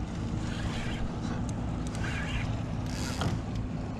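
Wind buffeting the microphone over a steady low rumble of open sea, with water swishing against a kayak in three short swells, about half a second, two seconds and three seconds in.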